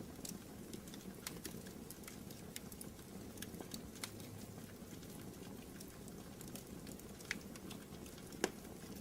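Fireplace fire burning with a steady low rumble and irregular crackles and pops, one sharper pop near the end.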